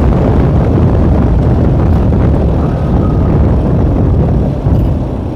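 K-Moto ATX moped engine running under way, with wind buffeting the microphone; the engine note eases off slightly near the end.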